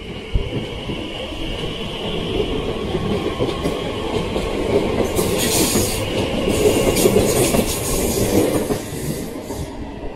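Electric passenger train moving along the platform: wheels clicking over rail joints under a steady whine, with a spell of high squealing and hissing near the middle that grows loudest about six to eight seconds in.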